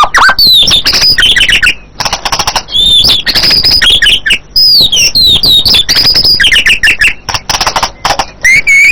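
White-rumped shama (murai batu) singing a loud, continuous stream of rapid, varied whistles, chirps and trills, with pitch sliding up and down from phrase to phrase.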